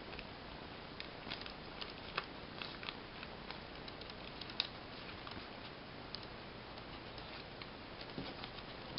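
Paper being handled and folded by hand: scattered soft crinkles and crisp little ticks as a sheet of folding paper is bent and creased, over a faint steady hiss.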